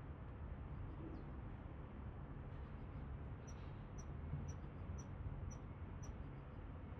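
A small bird calling: six short, high chips about twice a second, starting around the middle and stopping shortly before the end, over a steady low rumble.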